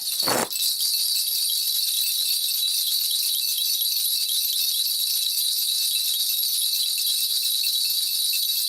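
A cluster of shaman's spirit bells (bangul) shaken steadily in a continuous bright jingling, as is done during a Korean shamanic divination. A short low falling sound comes right at the start.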